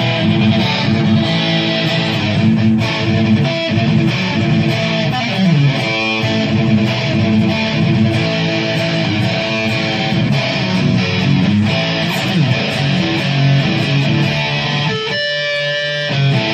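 Electric guitar played loud through an amp in a live rock jam, a fast riff of picked notes with bass guitar underneath.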